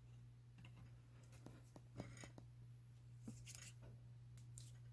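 Near silence over a steady low hum, with faint scattered clicks and light scrapes of small metal parts being handled.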